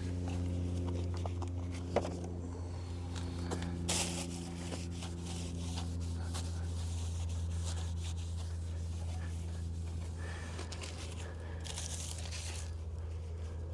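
A rag or paper towel rubbing and crinkling as a part is wiped down with wax and grease remover before painting, with light clicks of handling. A steady low hum runs underneath.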